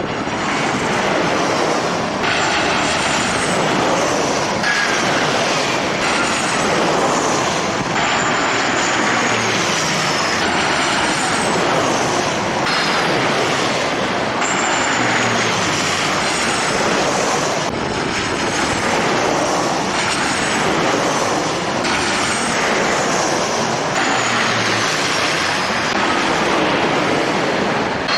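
Jet airliner engines running, a steady roar with high whines that fall in pitch again and again, mixed with strong wind buffeting the microphone.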